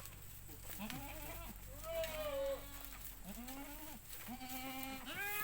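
Several goats bleating in a pen, one call after another and sometimes overlapping, each a wavering call that rises and falls in pitch.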